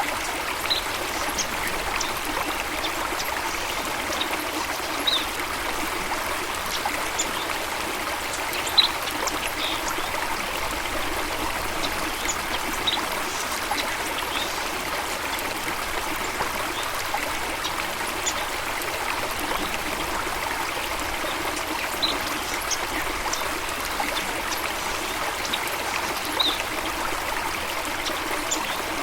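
Running water trickling and splashing steadily, with birds giving short high chirps scattered through it.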